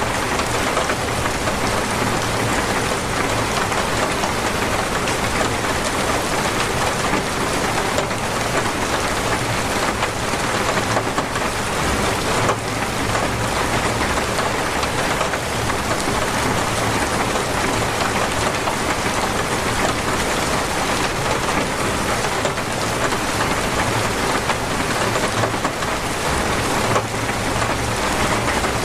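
Torrential rain falling steadily, a dense, even hiss of drops without let-up.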